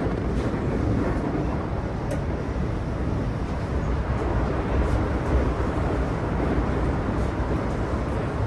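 Cabin running noise of a JR West 323 series electric train between stations: a steady low rumble of wheels on rail, with a few faint clicks.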